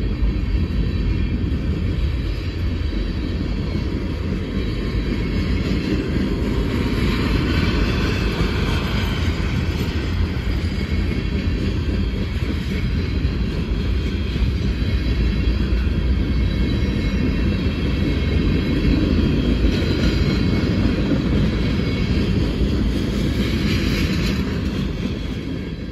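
Freight cars of a passing train rolling by close at hand: a continuous rumble and rattle of steel wheels on the rails. The sound grows brighter and harsher twice, about a third of the way in and again near the end.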